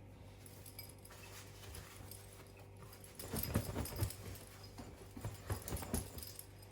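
Laundry being pushed into a front-loading washing machine drum: a run of soft, irregular knocks and rustles from about three seconds in until about six seconds, over a steady low hum.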